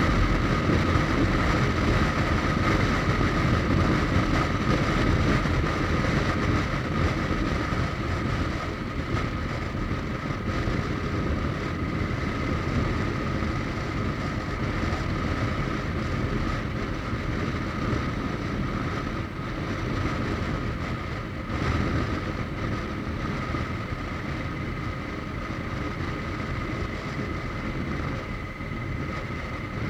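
Suzuki GSX1250FA motorcycle's inline-four engine running at speed on the road, mixed with wind rushing over the microphone, with a steady high whine. The sound eases a little after the first several seconds.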